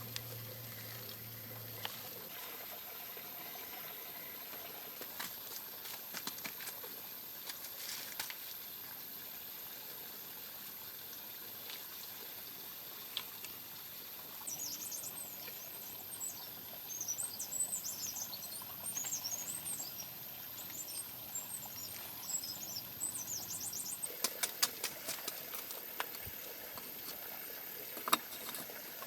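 A small bird twittering in quick, high, warbling phrases for several seconds midway, over a steady hiss. A run of sharp clicks and taps follows near the end.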